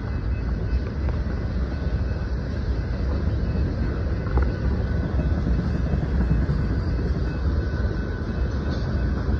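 Freight train of tank cars and hopper cars rolling past on the rails, a steady low rumble with faint thin high tones running through it.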